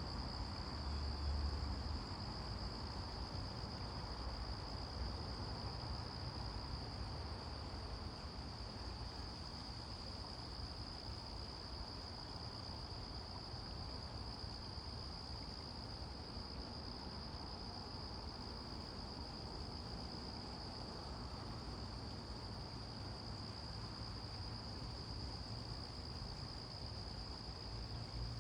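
A steady, high-pitched insect chorus, unbroken throughout, over a faint low rumble.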